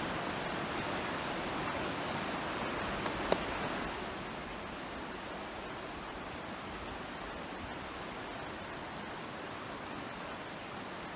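Creek water rushing steadily. There is a sharp click about three seconds in, and the rush gets a little quieter about a second later.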